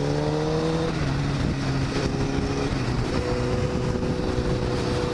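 Honda CBR1000RR's inline-four engine pulling away, revs rising then dropping at a gear change about a second in, then holding steadier, with wind rushing over the microphone.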